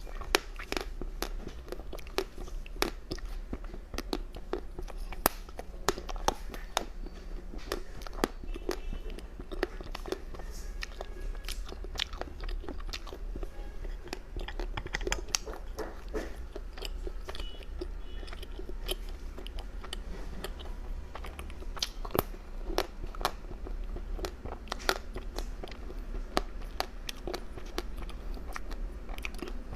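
Close-miked chewing and crunching of food: a steady run of sharp, crisp bites and chews.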